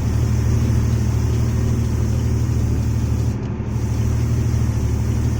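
Truck engine running steadily while driving, a deep drone that eases briefly a little past halfway before picking up again.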